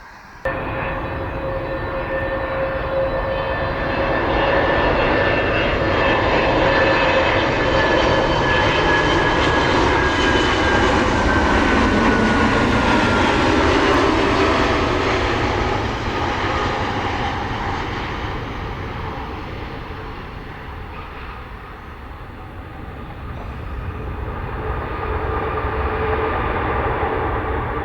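Jet airliner engines passing: a loud rush with whining tones that builds to a peak around the middle, one whine sliding down in pitch as the aircraft goes by. The sound then eases off and rises again near the end.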